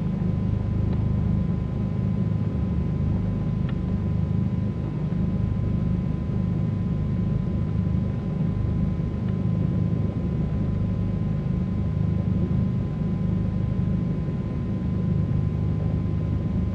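Twin piston engines of a Cessna 310Q running at low power, a steady low rumble heard inside the cockpit, with a faint steady whine above it.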